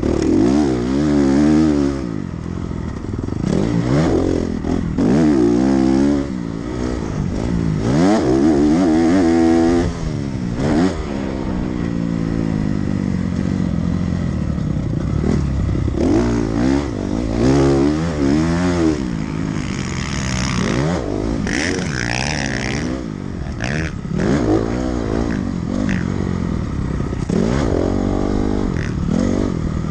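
Dirt bike engine being ridden hard, its revs climbing and dropping over and over as the throttle is opened and shut.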